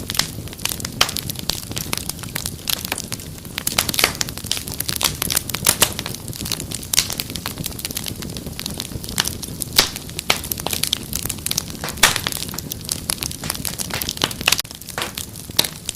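Wood fire crackling: dense, irregular sharp pops and snaps over a low, steady rumble of the burning fire.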